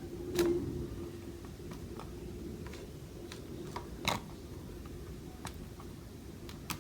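A few sharp clicks and soft scrapes of a utensil against a plate and toast as brown rice is spread on the bread: one about half a second in, another about four seconds in and one near the end, over a faint steady hum.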